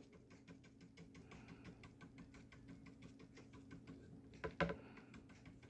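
Faint, quick, regular tapping of a paintbrush dabbing gouache onto paper, several light taps a second, with a couple of louder taps about four and a half seconds in.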